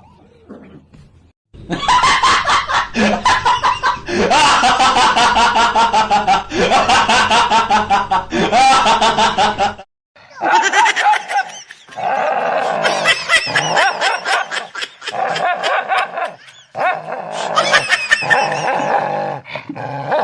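A person laughing hard in long, rapid fits, in two stretches with a short break about ten seconds in.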